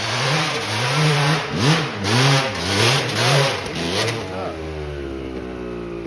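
Dirt bike engine revved in repeated surges, its pitch rising and falling about every two-thirds of a second. About four seconds in it settles to a steadier, slowly falling note.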